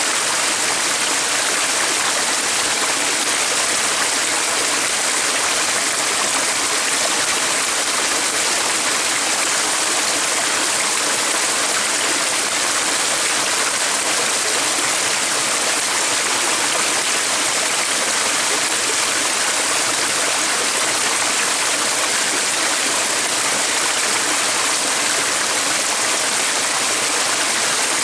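Stream water running steadily, a constant rushing hiss with no change in level.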